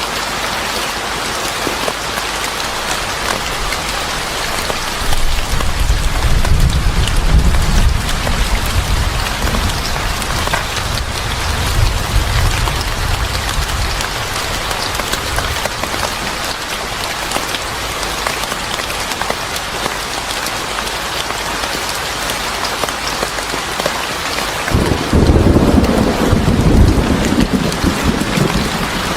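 Steady heavy rain falling, with low thunder rumbling twice: once from about five seconds in and again near the end.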